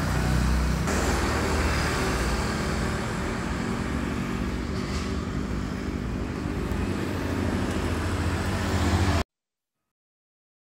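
A car engine running steadily with a low rumble and some road noise, cutting off suddenly about nine seconds in.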